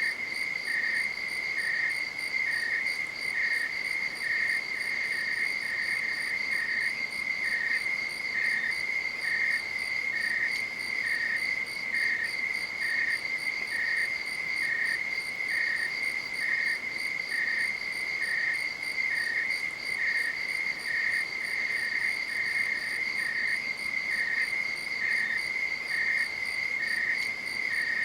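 Night insects, crickets, keeping up a continuous high trill, with a second insect chirping at a steady rhythm a little faster than once a second.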